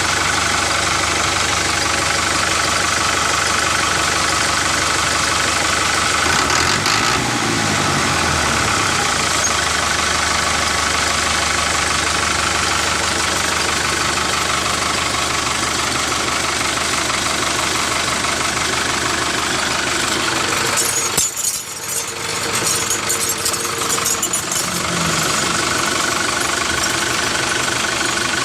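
A steady engine-like running sound from the mini tractor machinery: an even, knocking hum, with a short dip in level about three-quarters of the way through.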